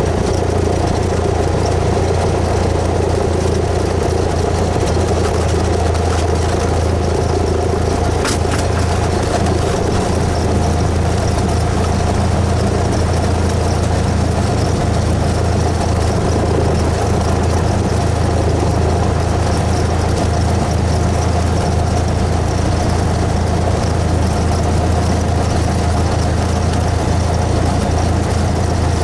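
Cessna 172S's Lycoming IO-360 four-cylinder engine and propeller running with a steady, unchanging drone, with one brief click about eight seconds in.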